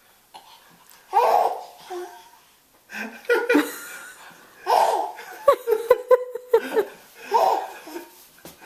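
An 8-month-old baby laughing with excitement in a series of loud bursts, with a quick run of short chuckles in the middle.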